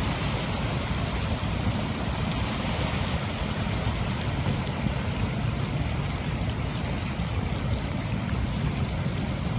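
Steady rushing of floodwater: a continuous even wash of water noise with a heavy low rumble.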